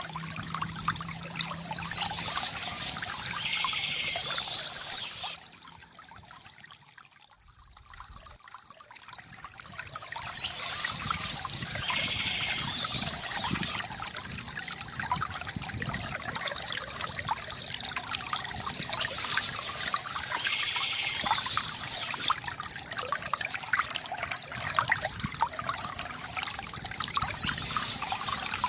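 Small stream of water trickling and splashing over stones in a steady rush. It dips in loudness for a few seconds about a quarter of the way in, then comes back.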